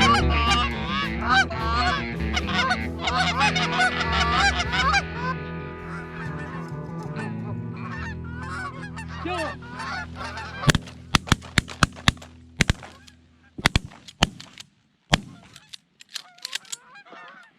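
Geese honking, many short calls overlapping, strongest in the first five seconds and thinning out. In the second half, a series of sharp cracks in quick clusters.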